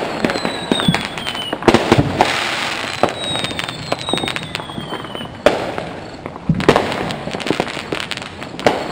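Fireworks going off in quick succession: a steady stream of sharp pops and bangs near and far. Twice, a high whistle glides down in pitch over a second or two, once about a second in and again around the middle.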